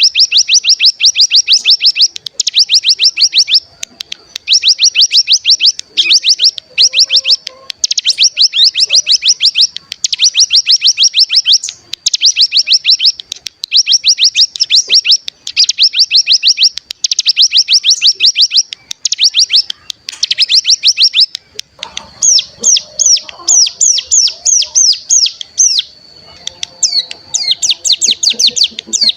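Ciblek gunung (cigun) songbird giving rapid, high-pitched rattling trills ('ngebren'), in bursts of about a second with short breaks between them. About three quarters of the way through, the trill turns into more widely spaced sweeping notes over a thin, steady high whistle.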